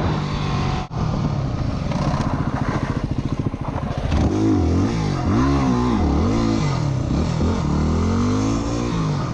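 Dirt bike engine running, with a brief gap about a second in. From about four seconds in it revs up and drops back again and again as the throttle is opened and closed.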